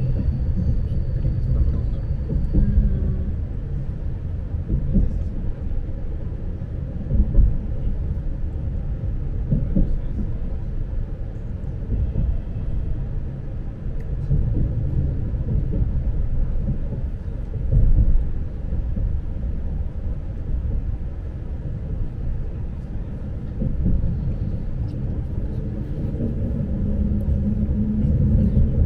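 Lastochka electric train running, heard from inside the carriage as a steady low rumble that swells and eases.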